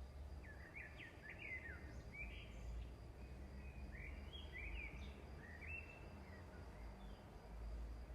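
A small bird chirping in two quick clusters of short, sweeping chirps, over a faint steady low hum.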